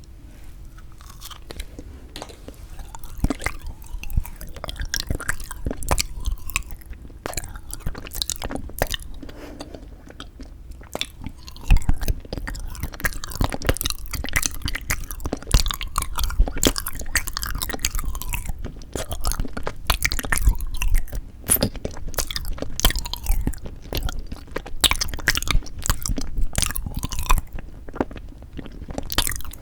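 Close-miked chewing and biting of frozen sweet red bean jelly (yanggaeng): a steady run of crisp, crackly bites and moist chewing, getting louder and busier about halfway through.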